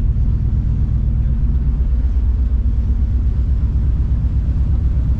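Ferry's engines running with a steady low rumble.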